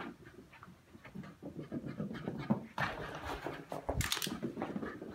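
A young Scottish terrier running laps, its paws scampering in quick clicks and patters, with panting; a sharp knock about four seconds in.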